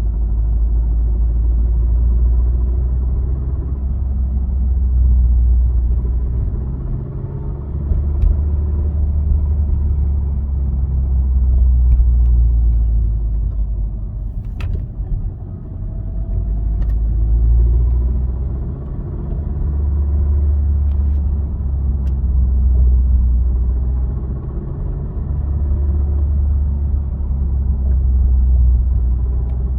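Low rumble from a Honda Civic Type R (FK8), swelling and fading in waves every several seconds, with a few faint clicks, the clearest about halfway through. It is the noise the owner finds weird; its cause is not known.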